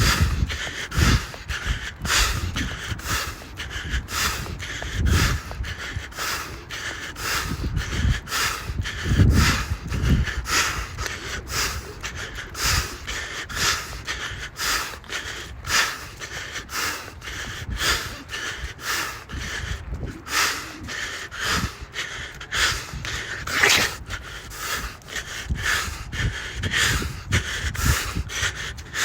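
A runner's heavy, rhythmic breathing close to the microphone, panting about twice a second under the effort of running uphill.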